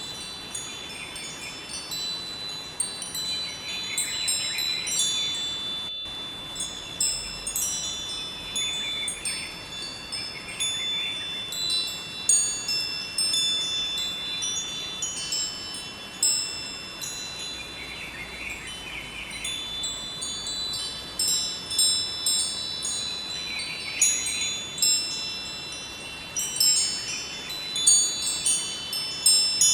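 Wind chimes tinkling, many high ringing tones struck at irregular moments and overlapping, over a faint steady rush of river water.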